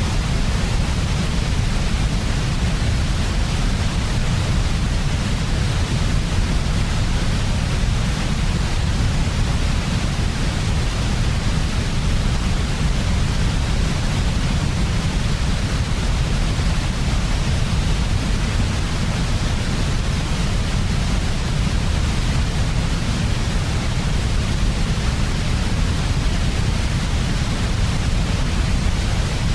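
Steady, unbroken white noise for infant sleep: an even hiss across the highs over a heavier low rumble, with no change in level or pattern.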